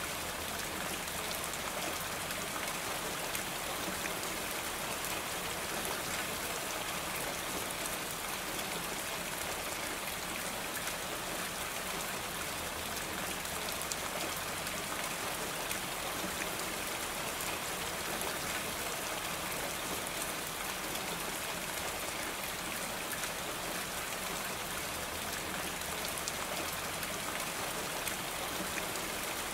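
Steady rain falling on a roof: an even hiss of many small drop hits.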